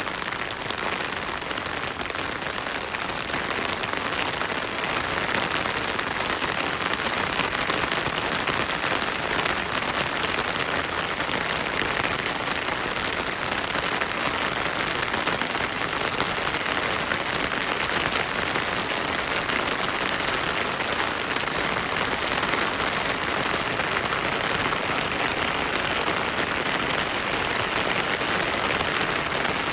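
Heavy rain falling steadily through forest, a dense even hiss of drops on leaves and ground, mixed with a flowing stream.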